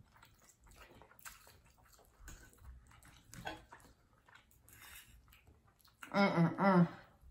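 Faint close-up chewing and mouth sounds of eating, with light clicks of forks against plates. About six seconds in, a brief loud hummed vocal sound in two pulses.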